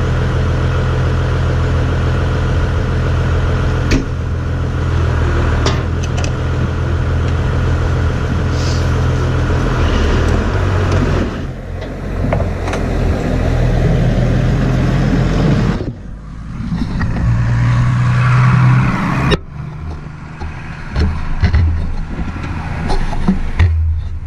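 Farm tractor engine running steadily, with a few sharp knocks about four and six seconds in and abrupt changes in the engine sound about two-thirds of the way through.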